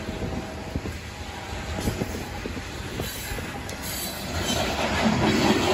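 Covered hopper cars of a freight train rolling past: a steady rumble of steel wheels with irregular clicks over the rail joints, swelling louder near the end.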